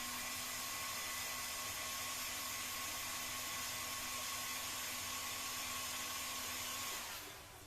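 Electric heat gun running steadily, a hair-dryer-like rush of air over a faint motor hum, then switched off about seven seconds in.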